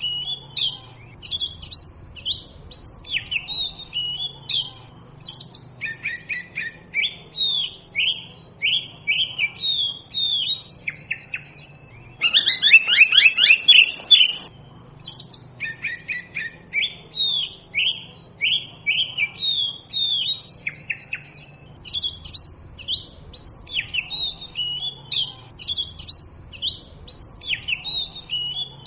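Oriental magpie robin singing: a long, varied series of short whistled notes and phrases. Some twelve seconds in comes a louder, fast run of notes lasting about two seconds.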